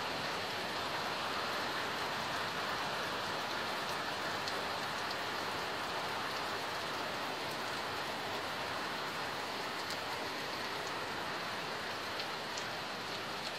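Steady rain falling: an even hiss, with a few faint ticks of single drops.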